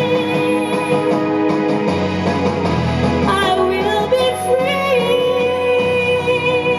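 A female singer singing with instrumental accompaniment. About three seconds in her voice moves through a wavering run of notes, then settles into a long held note.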